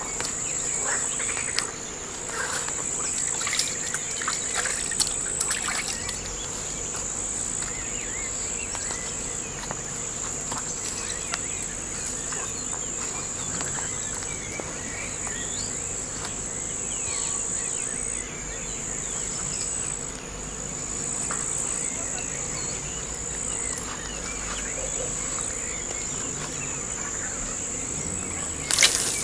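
A steady, high-pitched chorus of insects such as crickets, briefly dropping out a few times. Faint scattered chirps run under it, and there is one sharp knock near the end.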